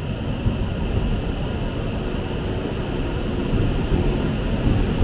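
E7 series Shinkansen train pulling out of the station past the platform. It makes a steady low rumble that grows slowly louder as the train gathers speed.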